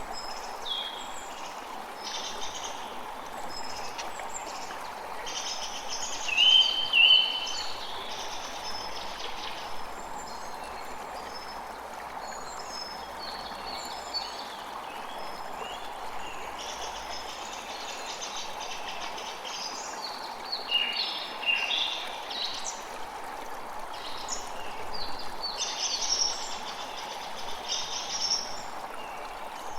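Steady rush of flowing water, with many birds chirping and singing over it. The loudest calls are two short whistled notes about six to seven seconds in, and a busier flurry of chirps around twenty seconds in.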